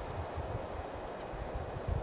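Steady low outdoor rumble, like wind on the microphone, with a faint short bird chirp about one and a half seconds in.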